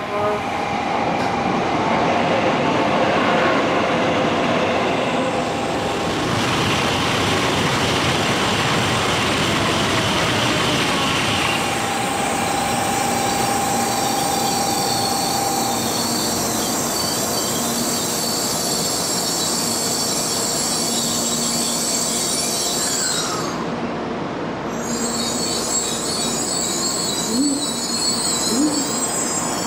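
N700-series Shinkansen pulling into a station platform: steady running noise of the train sliding past. A brief tone comes in midway, and high-pitched squealing follows in the last few seconds as it slows.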